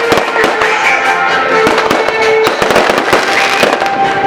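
Rapid, irregular crackling bangs of fireworks and firecrackers, many sharp cracks a second, over music with held notes.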